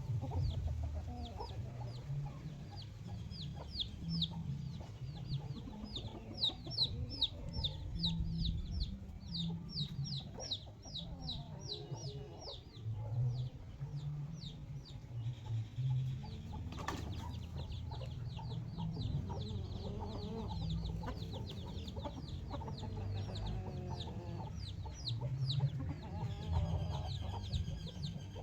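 Free-range chickens clucking low and steadily, over long runs of quick high peeps repeated several times a second. A single sharp knock sounds about halfway through.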